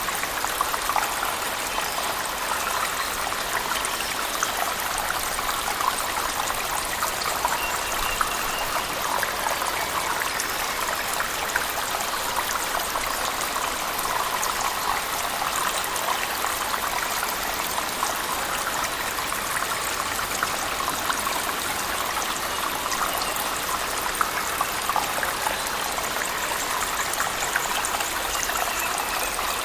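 A cave waterfall mixed with heavy rain: a steady, even rush of falling water with many small splashes and drips running through it.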